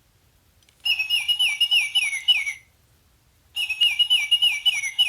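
Recorded Baltimore oriole call played from an Audubon plush bird's sound box: two phrases of quick, repeated whistled notes, each note sliding downward, with a pause of about a second between them.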